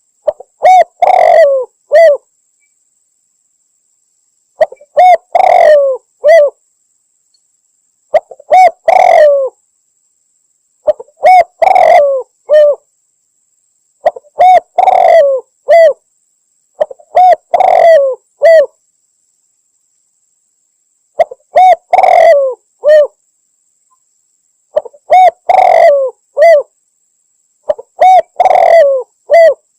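Spotted dove (tekukur) cooing in a recorded hunting lure call: nine repeated phrases of several quick coos each, one every three to four seconds, with silence between. The uploader presents it as a female calling in a male.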